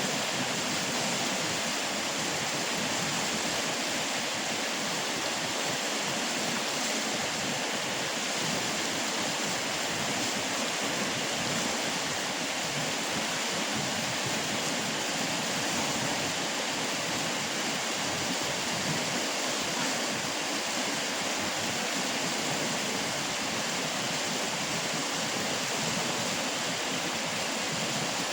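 Steady rush of river water falling and flowing over rocks.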